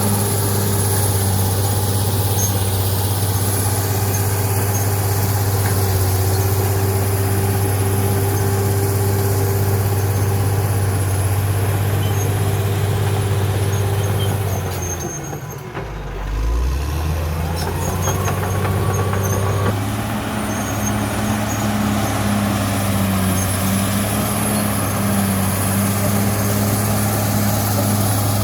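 CAT D6R XL bulldozer's diesel engine running steadily under load. About halfway through, the engine note dips briefly and picks back up, followed by a rising whine for a couple of seconds before it settles into steady running again.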